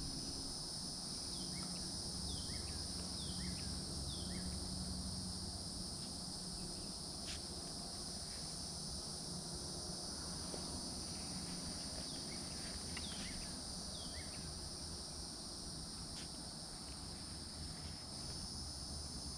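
Steady high-pitched chorus of crickets and other insects, with a string of short falling chirps roughly once a second and a low background rumble.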